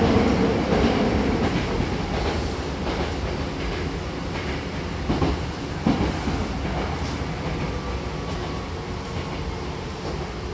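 Hankyu commuter train running on the rails, heard from inside the car by the doors, getting steadily quieter as it slows. Two sharp wheel clacks come about five and six seconds in.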